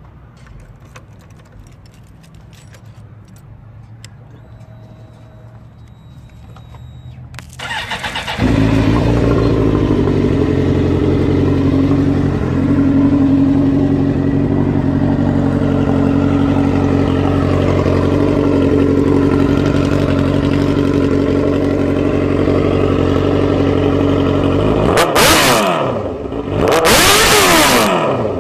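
Car engine that jumps to high revs about seven seconds in and is held there, steady and loud, with a strong hiss over it. Near the end the revs fall and rise in several sweeps, with loud bursts of hiss.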